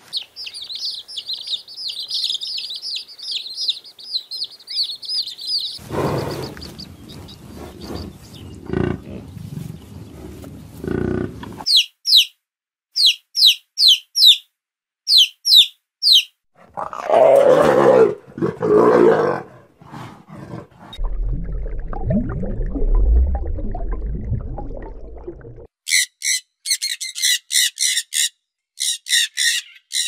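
A string of different animal sounds cut one after another. It opens with several seconds of high warbling chirps, then low rustling with a few knocks. Near the middle, domestic chicks peep in quick falling cheeps, followed by two loud lower calls, a low rumble, and a run of high repeated chirps near the end.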